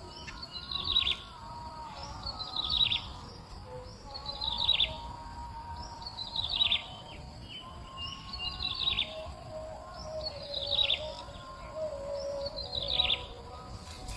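A bird calling over and over, one short call falling in pitch roughly every two seconds, seven calls in all.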